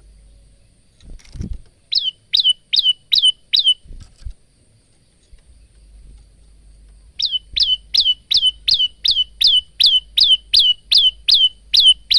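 Male olive-backed tailorbird (prenjak lumut) singing: runs of sharp, loud notes, each falling in pitch, at about four a second. A short run of five comes about two seconds in, and after a pause of a few seconds a longer run of a dozen or more follows.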